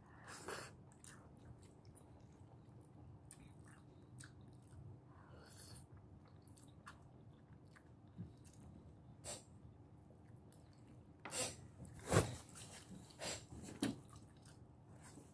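A person chewing mouthfuls of salmon and vegetables, with faint wet mouth clicks and smacks scattered throughout and a few louder ones near the end.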